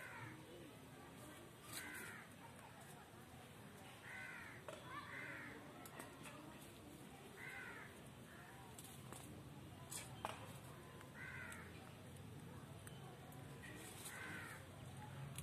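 A pet parrot giving short, harsh squawks, faint and about seven in all, spaced a second to a few seconds apart. A single sharp click comes about ten seconds in.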